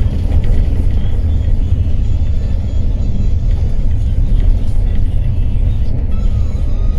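Intercity coach bus on the move: a loud, steady low rumble of engine and road noise, with faint music over it.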